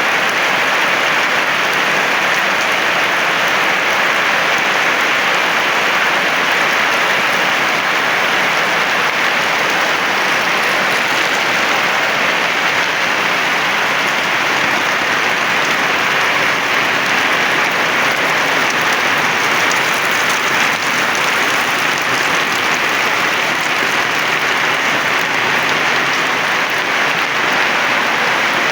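Heavy rain pouring down: a loud, steady, dense hiss of drops hitting the ground and nearby surfaces, with no letup.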